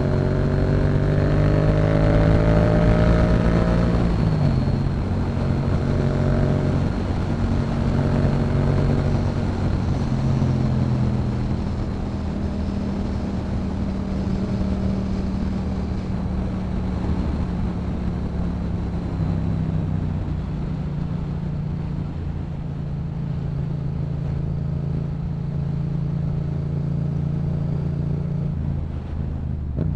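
Yamaha MT-07's 689cc parallel-twin engine through a Yoshimura exhaust, heard while riding, with wind noise. It pulls up in revs for about four seconds, shifts up, then holds steady cruising revs with small changes in throttle.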